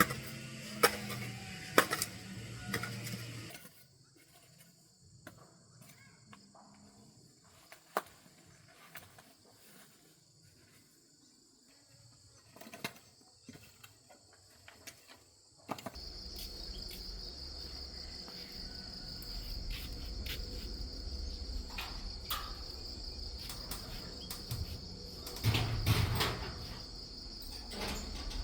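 A quiet stretch with a few scattered light taps, then about halfway through a steady high-pitched insect chorus sets in over a low background rumble, with a few louder knocks near the end.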